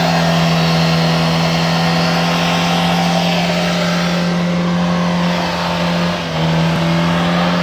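A car engine held at high, steady revs, dipping briefly about six seconds in before picking up again.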